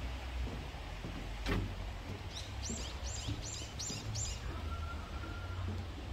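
A bird calling five short, high notes in quick succession, each falling in pitch, over a steady low outdoor rumble. A single sharp click comes about a second and a half in.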